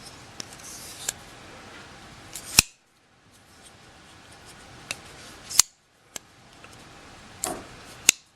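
Hogue EX01 folding knife's blade being snapped, a short swish ending in a sharp metallic click, three times about three seconds apart, with a few lighter ticks in between.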